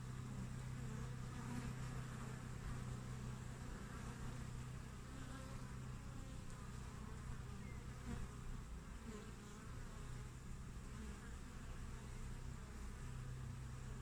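Steady hum of honey bees at a hive entrance, many workers buzzing as they fly in and out, with the pitch of single bees rising and falling as they pass close by.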